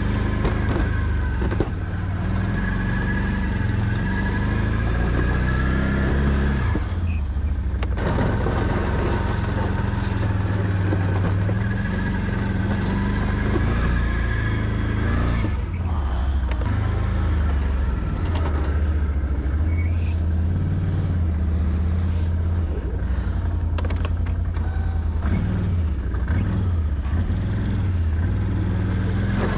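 Can-Am Outlander 650 ATV's V-twin engine running under load while pushing a snow plow, its pitch rising and falling with the throttle and dropping briefly about seven seconds in and again around sixteen seconds.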